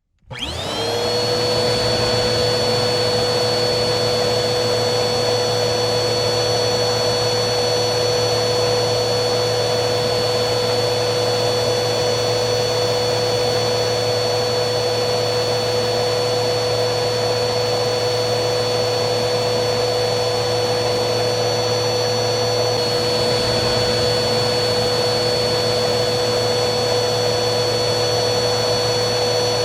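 Vacuum cleaner running: the motor cuts in at the very start with a whine that rises quickly and settles, then runs steadily as a high motor whine over rushing airflow.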